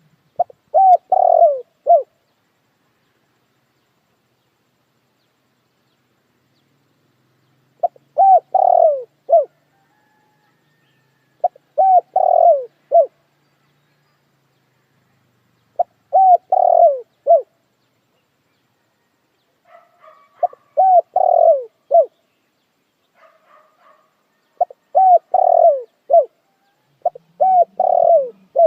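Puter dekukur dove cooing: seven short phrases of several quick coo notes each, repeated every three to four seconds. Faint higher chirps from another bird come between two of the later phrases.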